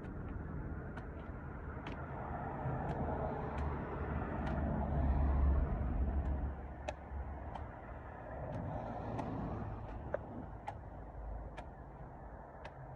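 A low engine rumble that swells to its loudest about five seconds in and then eases off, with sharp clicks scattered throughout.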